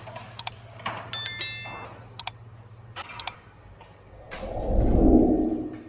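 Metal utensils and cookware clattering: light clicks and knocks, a short metallic ring about a second in, and several more taps. Near the end comes a louder low rushing whoosh lasting over a second.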